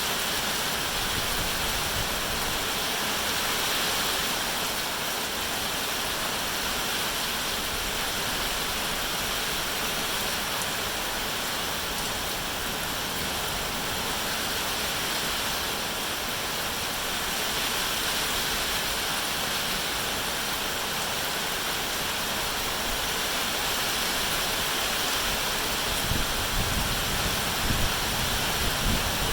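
Steady rain falling, an even unbroken hiss. A few short low rumbles come in near the end.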